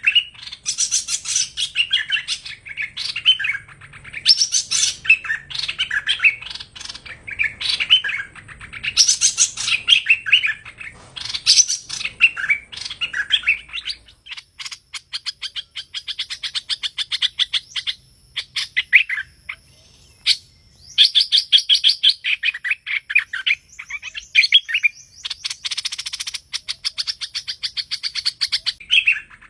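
Streak-eared bulbul (hoành hoạch) song: quick bursts of sweet chirping phrases, changing about halfway through to fast runs of short chattering notes mixed with further chirped phrases.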